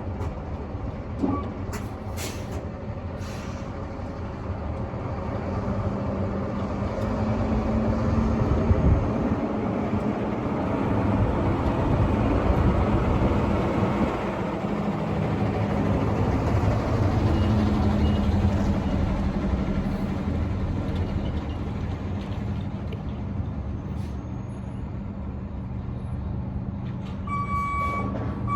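Box truck engine running while the truck is manoeuvred, its speed rising and falling twice, with a short hiss about two seconds in. Near the end the truck's reversing beeper starts beeping steadily.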